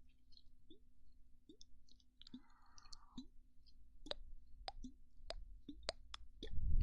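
ASMR mouth sounds close to the microphone: a string of wet clicks and pops from the lips and tongue, coming faster in the second half, with a brief soft rustle about two and a half seconds in. Near the end a breath is blown onto the microphone.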